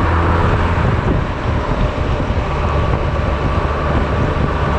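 Honda Silver Wing maxi-scooter under way on the road: a steady low engine drone mixed with road and rushing-air noise, harsh on the camera's microphone.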